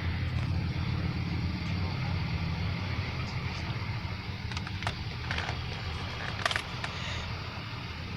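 A car engine running steadily with a low hum, with a few light clicks in the second half and one sharper click about six and a half seconds in.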